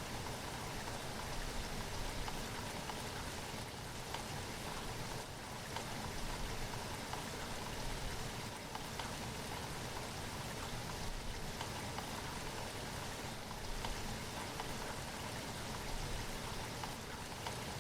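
Steady rainfall, a constant hiss full of fine drop patter.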